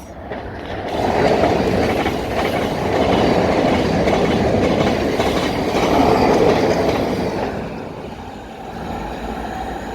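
Thameslink Class 700 electric multiple unit running along the platform. Its noise builds within the first second, holds steady, then eases off after about seven seconds.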